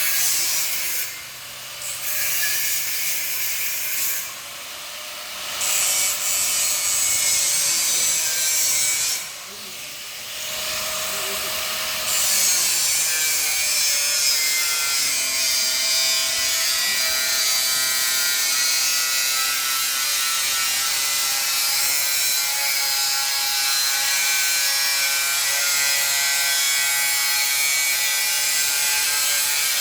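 A grinder's cutting disc cutting 2 mm steel plate. It makes short cuts broken by brief pauses in the first dozen seconds, then one long unbroken cut with a steady high whine.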